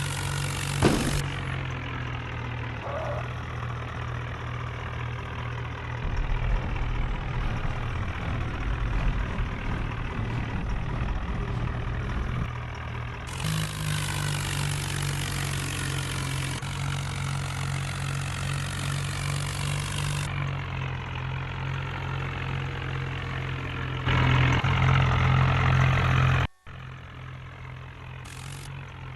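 New Holland tractor's diesel engine running steadily at idle. Its level and tone jump abruptly a few times. It runs louder for a couple of seconds near the end, then drops suddenly to a quieter run.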